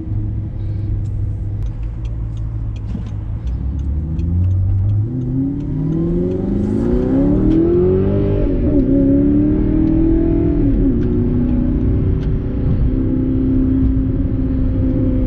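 Audi R8's mid-mounted engine heard from inside the cabin: running low and steady as the car rolls, then revving up with a rising note from about five seconds in. The note drops sharply twice as it shifts up, then settles into a steady cruise.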